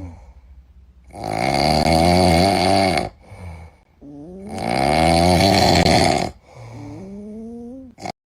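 A cat snoring loudly: two long snores, each about two seconds, roughly three seconds apart, with quieter breaths in between.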